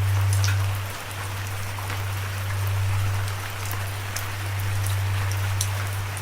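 Steady rain hiss with scattered, distinct drop ticks, over a low sustained drone note that holds one pitch throughout.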